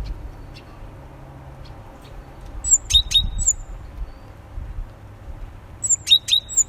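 Small songbirds calling: two brief bursts of short, high chirps about three seconds apart, with sharp clicks among them.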